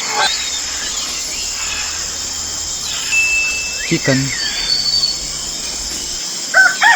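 Steady background hiss, then near the end a rooster starts a long, loud crow.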